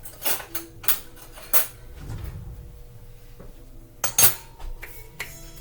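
Dishes and cutlery clinking and clattering on a kitchen counter: a handful of sharp knocks, the loudest a double knock about four seconds in.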